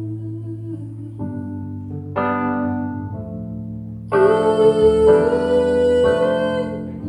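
Live band playing a slow ballad: sustained piano and keyboard chords that change about once a second, with a long held note over them in the second half.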